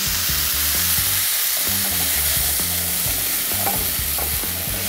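Mushrooms, red onion and garlic sizzling steadily in hot rendered beef fat in a cast iron pan, with a spoon scraping and stirring them out of the pan into a saucepan of sauce.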